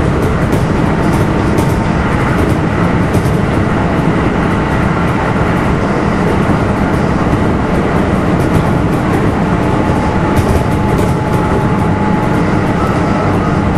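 Kintetsu 1253 series electric train running steadily, heard inside the passenger car: a loud, even rumble of wheels on rail with a few faint steady tones. Scatters of sharp high ticks come about a second in and again near ten seconds.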